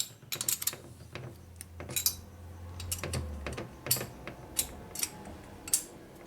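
Steel wrench clinking against the cylinder base nuts as they are snugged down with light torque: a string of irregular sharp metallic clicks.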